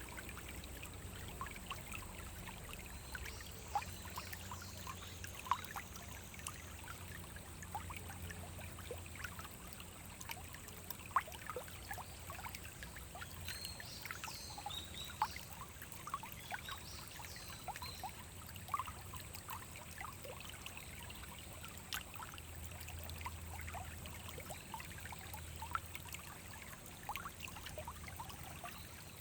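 Small forest brook trickling and babbling over stones, with frequent small plops and drips scattered through a steady water hiss.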